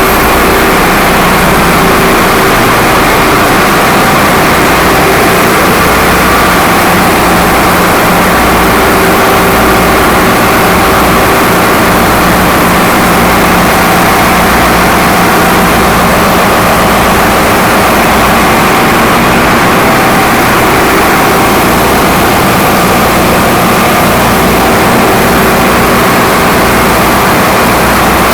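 Container ship's engine-room diesel machinery running: a loud, steady, unbroken machine noise with a low pulsing beat underneath.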